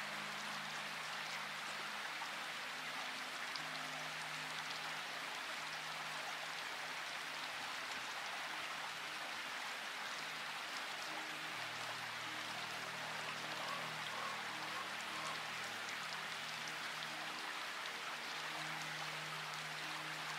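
Steady rain falling, an even hiss of drops, with soft held low music notes underneath that shift every few seconds.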